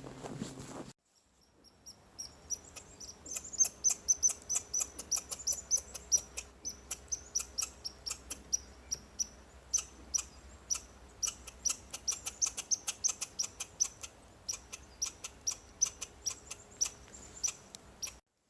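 Small songbirds chirping: many short, high calls in quick, irregular succession, several birds calling over one another.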